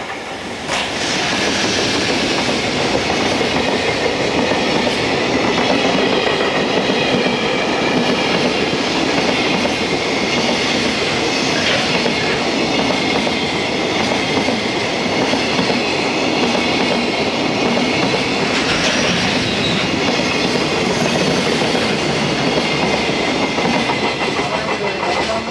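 Container freight train hauled by an EF210 electric locomotive passing close by: a long string of container wagons running at speed, with a steady rumble and the clickety-clack of wheels over rail joints. The noise starts suddenly about a second in and holds steady throughout.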